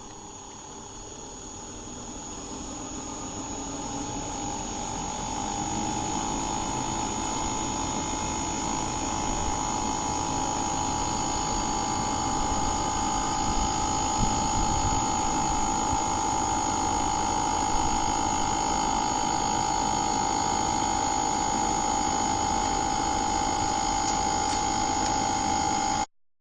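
A machine running with a steady whine and hum, growing louder over the first six seconds, then holding steady until it cuts off suddenly near the end.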